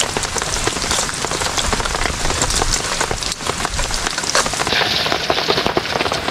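Pork deep-frying in hot oil, a dense, steady crackling sizzle, mixed with rain pattering on a tarp overhead.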